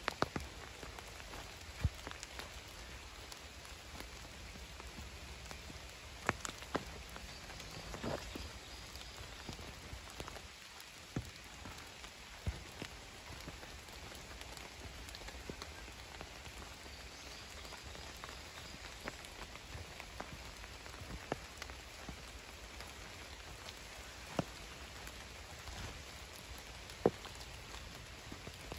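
Light rain falling steadily, a faint even hiss, with scattered single drops striking close by as sharp ticks, the loudest one near the end.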